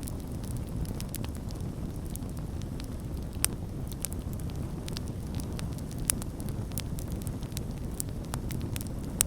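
Campfire burning with a steady low rumble and frequent sharp crackles and pops, a few louder pops standing out about three and a half seconds in, six seconds in and near the end.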